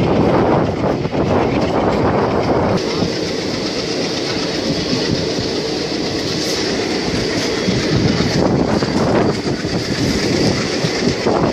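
Passenger train running at speed, heard from an open coach: a steady rumble and rattle of wheels on the rails with rushing air. A brighter, hissier rush comes in about three seconds in.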